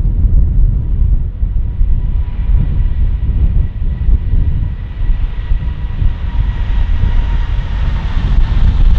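Jet airliner's engines approaching and growing steadily louder, with a thin steady whine from the fans, over a constant low rumble of wind on the microphone.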